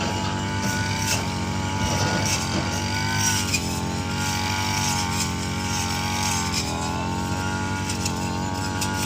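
Heavy vehicle engine running steadily, its pitch wavering slightly.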